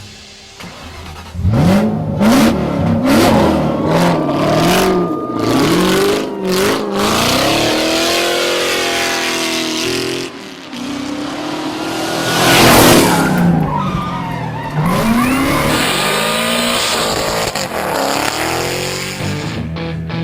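Vehicle engines revving hard, rising and falling in pitch over and over, with tyres squealing and skidding as they drift. The loudest moment is a rush of tyre noise about two-thirds of the way through.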